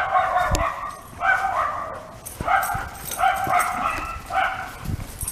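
Dog yipping and whining excitedly in a quick run of short, high calls, about six or seven of them.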